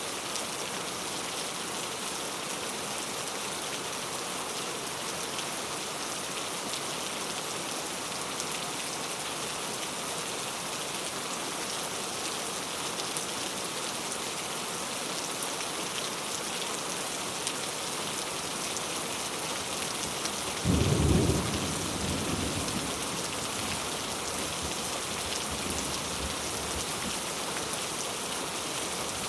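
Steady heavy rain falling, with a sudden clap of thunder about two-thirds of the way through that trails off into a low rumble over a few seconds.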